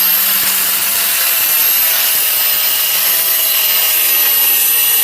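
Angle grinder running steadily with a high whine, grinding the edge of a steel log-splitter axe blade to true up its uneven edge line.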